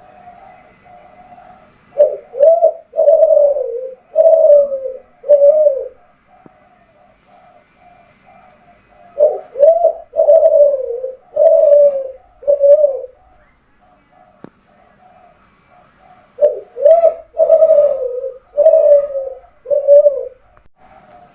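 Kelantan spotted dove (derkuku) cooing: three loud phrases of about five deep, hooting coos each, a few seconds apart, with fainter quick coos in between.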